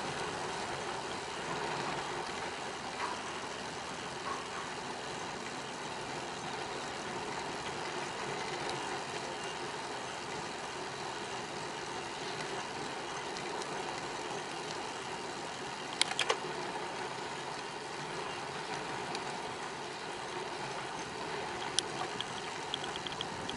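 Steady rolling and wind noise from a bicycle riding along a paved path, with a couple of sharp clicks about two-thirds of the way through and near the end.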